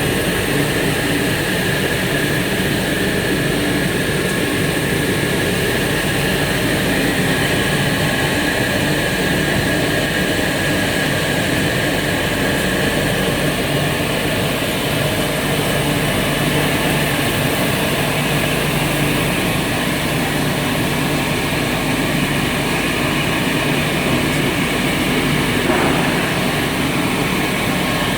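EPE polyethylene foam sheet extrusion line running: a steady machine hum and hiss with several held tones, unchanging throughout.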